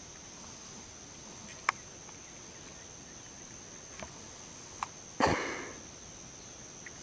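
Insects keeping up a steady high-pitched drone, with a few faint clicks and one louder thump about five seconds in.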